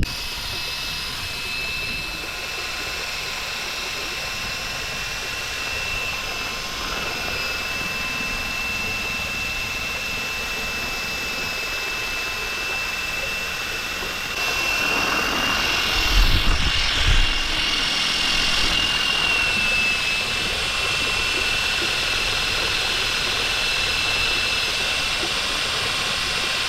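Cordless drill driving a kayak's propeller, its motor running with a steady high whine. A few low knocks come about two-thirds of the way through.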